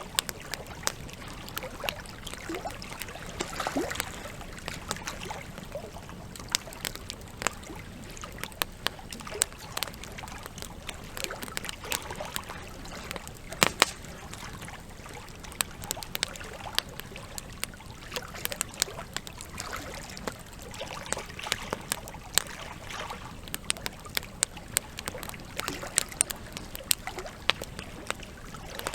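Burning logs crackling, with frequent irregular sharp pops over a steady trickle of water; the loudest pop comes about halfway through.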